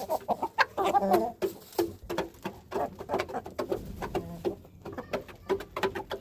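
Birds calling in short low coos and clucks, over many quick taps and scuffling clicks.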